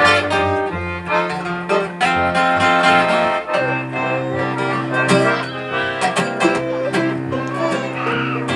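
Live acoustic country band playing an instrumental passage of a song, led by acoustic guitar with other string instruments, with no singing.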